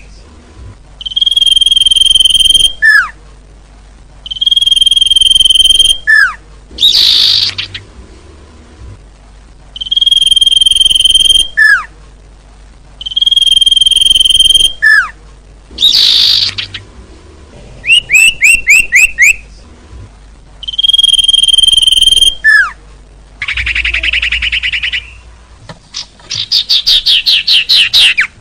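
Bird-lure recording of small songbird calls in a repeating cycle every few seconds: a long, steady high whistle, a short falling note, and a harsh buzzy call. Runs of quick descending chirps appear near the start and again near the end.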